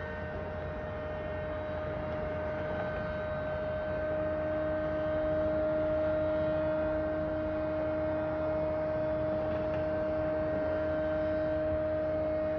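A loud, constant droning hum of unknown origin, holding one strong steady tone with fainter tones above it and a low rumble beneath. A lower tone joins in about four seconds in.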